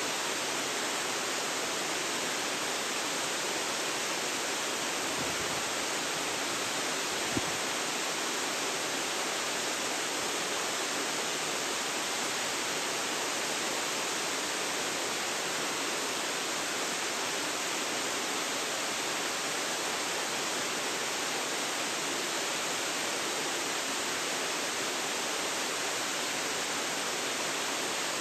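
Waterfall: the steady, even rush of water pouring down, with no change in strength.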